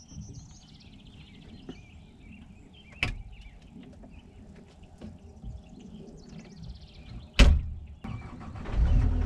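Faint high chirping and two sharp knocks, the louder one about seven seconds in. Near the end the John Deere 331G skid steer's diesel engine starts and settles into a steady run.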